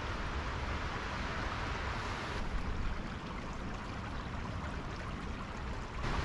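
Small woodland stream flowing, a steady rushing of water.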